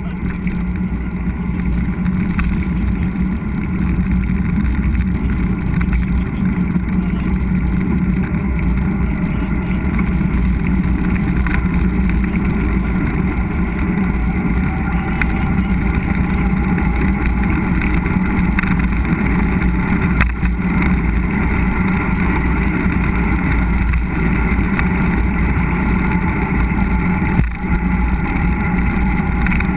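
Steady rumbling wind and riding noise on a mountain bike's action camera while riding along a trail.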